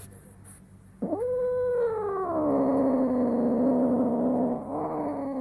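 A female cat in heat gives a long, low, wavering moan. It begins about a second in with a quick rise in pitch, then slides down to a deeper drawn-out yowl and starts again near the end.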